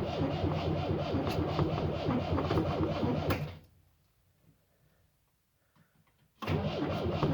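Moskvitch-403's four-cylinder engine being cranked over by its starter motor on a first start attempt, with no overhaul done. The rhythmic cranking stops about three and a half seconds in, goes quiet for about three seconds, then starts again near the end.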